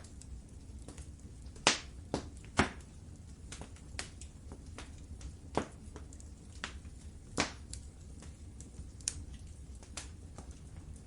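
Wood fire crackling in a fireplace: irregular sharp pops and snaps over a low steady rumble, with a few louder pops, two close together about two seconds in and another past the middle.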